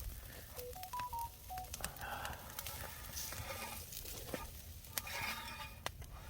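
A quick run of five short electronic beeps at different pitches, like phone keypad tones, in the first second and a half, over scattered sharp crackling clicks from the wood fire.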